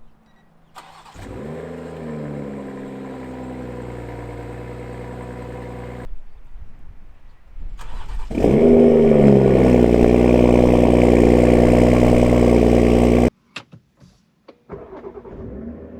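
BMW M340i's turbocharged 3.0-litre inline-six started twice: each time a short crank, a rev flare that falls back, then a steady idle through the exhaust. The second start is clearly louder than the first, and each cuts off abruptly.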